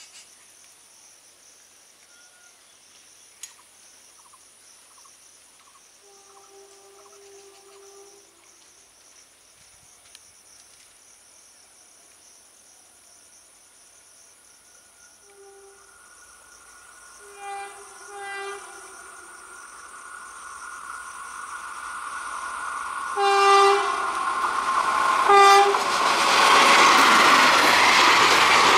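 Indian Railways train of ICF coaches approaching and passing, hauled by a WAP-4 electric locomotive. The locomotive horn sounds several short blasts, faint at first and louder near the end. Meanwhile the rumble of wheels on rail grows steadily until the train rushes close by in the last few seconds.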